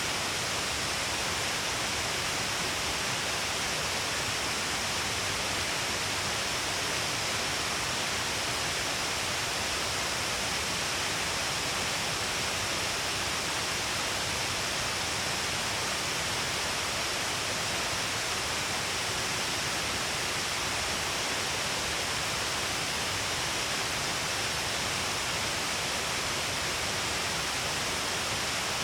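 Shiraito Falls, many thin falls pouring down a long cliff face, making a steady, even rush of water with no change throughout.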